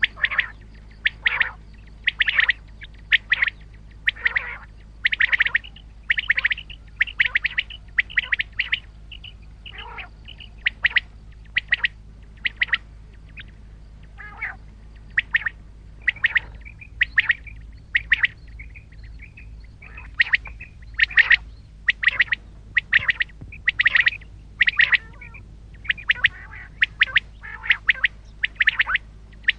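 Common quail calling: short, sharp calls repeated over and over, one or two a second, with a brief lull about halfway through.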